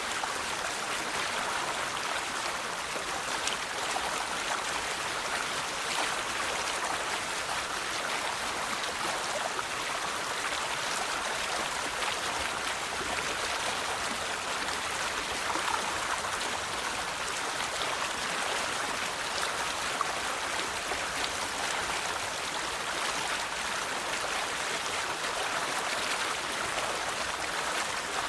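River water flowing steadily over rocks, a continuous even rush with small splashes and trickles.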